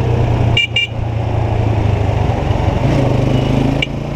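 Motorcycle engine running steadily while riding, with a rush of wind and traffic noise. Two quick high chirps come a little under a second in, and another near the end.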